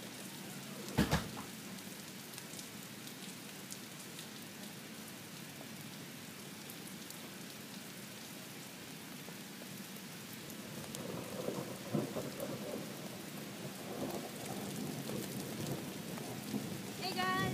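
Steady rain falling outdoors, an even hiss that grows somewhat louder and busier in the second half, with a sharp click about a second in and a few short high chirps near the end.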